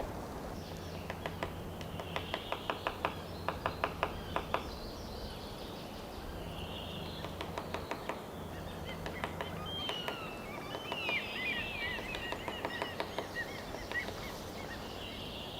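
White-backed woodpecker drumming on wood in several long rolls of rapid knocks that speed up toward the end. A songbird sings briefly in the middle.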